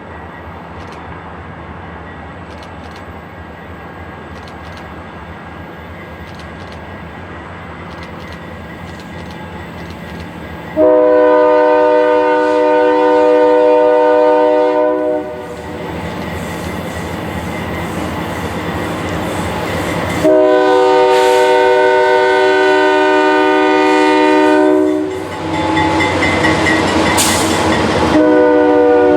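Diesel locomotive rumbling as it approaches and grows slowly louder, then sounding its air horn in two long blasts, about eleven and twenty seconds in, each a chord of several steady tones.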